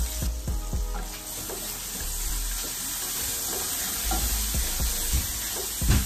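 Minced garlic sizzling in hot oil in a cast-iron skillet, stirred with a spatula that scrapes and knocks against the pan, with a louder knock near the end.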